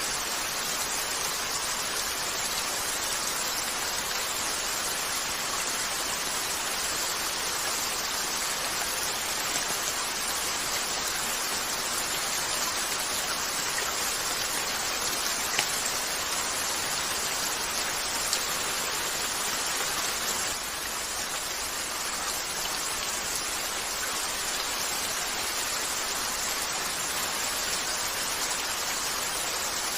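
Steady rain falling on a window, a dense even hiss, with a few faint clicks.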